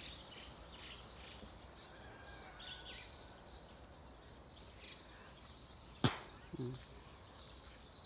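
Faint, scattered chirps and calls of small birds around a fruiting tree, with a sharp click about six seconds in and a brief low murmur just after it.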